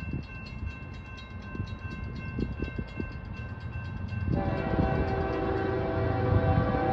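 An approaching CSX locomotive's horn comes on suddenly about four seconds in and holds steady, over the low rumble of the oncoming train, which grows louder. An activated grade-crossing bell rings faintly throughout.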